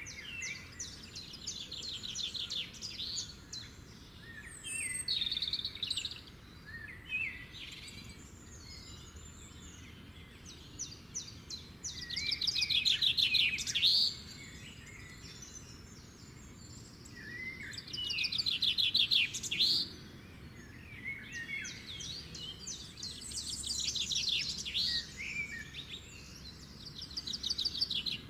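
Small songbirds singing and chirping in repeated bouts of rapid, high trills, with the loudest bursts about halfway through and again a few seconds later.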